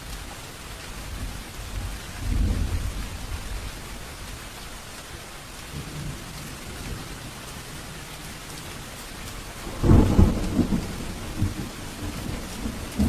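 Steady heavy rain falling, with rolls of thunder: a soft low rumble about two seconds in, and a louder crackling rumble about ten seconds in that trails off over the next couple of seconds.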